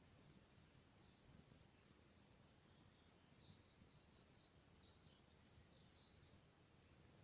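Faint songbird song: quick, twittering high phrases, one short run and then a longer one, over quiet low background noise, with a couple of faint clicks.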